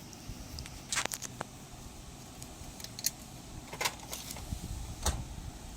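Scattered light clicks and clinks from colouring tools being handled and set down on a table, with a faint hiss of room tone between them.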